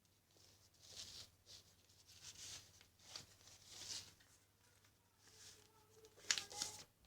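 Sheet of paper being folded and creased by hand, faint swishing rubs every second or so, with a sharper, louder rustle near the end.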